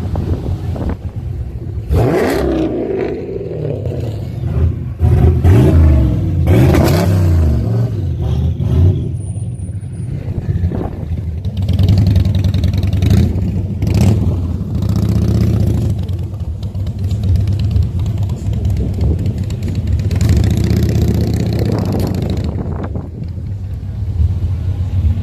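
Car engines running, revving up in rising bursts about two seconds in and again around five to seven seconds in, then running on steadily.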